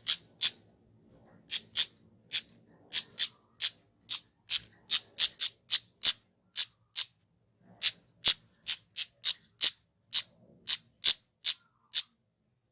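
Kemade, a flowerpecker, calling: a long run of short, sharp, high-pitched 'tsit' notes, about two to three a second at an uneven pace, stopping shortly before the end.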